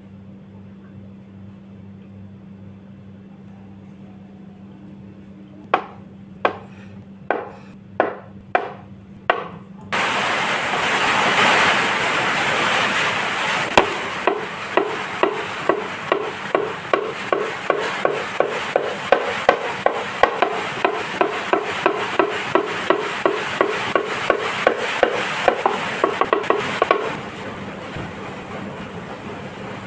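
A few sharp knocks, then a steady hiss comes in suddenly about a third of the way in. Over the hiss, a knife chops regularly on a cutting board, about two strokes a second, stopping shortly before the end.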